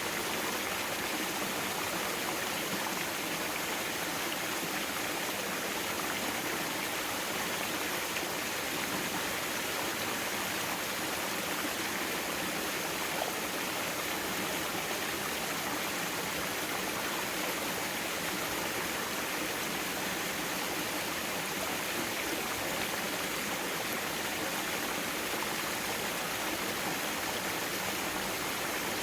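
Mountain stream water flowing and rushing over rocks, a steady, even sound.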